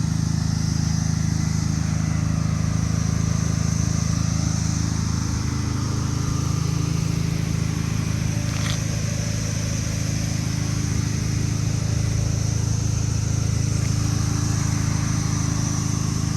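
Car engine idling steadily, its pitch stepping up slightly about five seconds in, with a steady high-pitched hiss above it and a single sharp click about halfway through.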